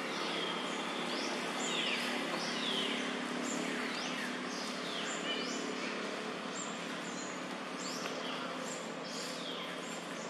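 Birds calling in a forest canopy: many short, high calls that sweep down in pitch, repeated throughout over a steady background hiss.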